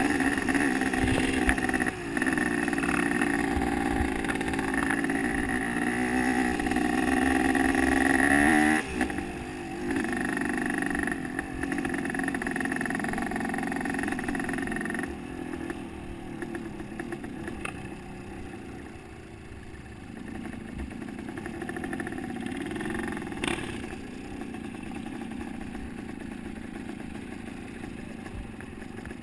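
Motocross dirt bike engine running and revving. It is loud for the first nine seconds or so, then drops off and grows fainter, its revs rising and falling.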